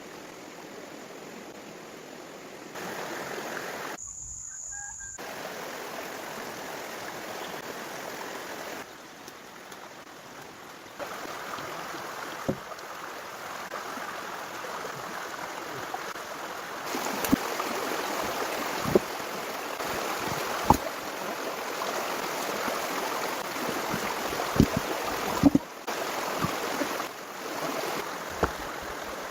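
A steady rushing outdoor noise, broken by several abrupt cuts, with scattered sharp knocks from about twelve seconds in, most of them in the second half.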